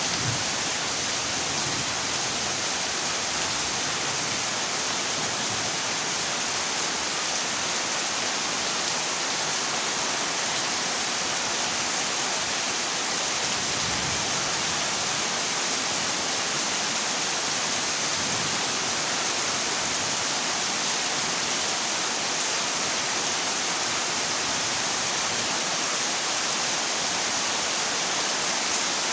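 Heavy rain falling steadily on a corrugated zinc (metal) roof, an even, unbroken hiss.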